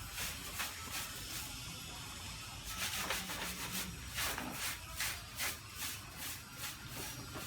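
Repeated rubbing strokes, about three a second, of something scrubbing a motorcycle's soapy surface, with a short lull near the middle.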